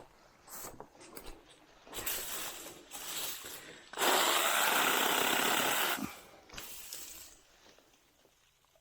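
Small 6-inch battery-powered mini chainsaw running and cutting for about two seconds, amid crackling and rustling of brush before and after.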